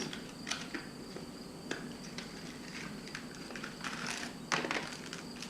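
Crinkling and clicking of a plastic snack packet of barbecue worms being opened and handled: scattered short crackles, a couple of louder ones about four seconds in.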